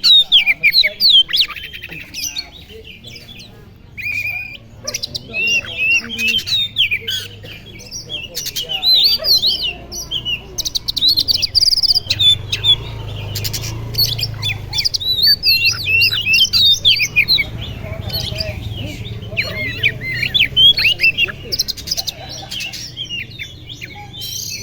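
Oriental magpie-robin (kacer) singing a fast, unbroken string of varied whistles, chirps and harsh squawks, with a rapid buzzy trill near the middle. This is the bird's agitated display song ('ablakan'). A low rumble lies underneath through the middle stretch.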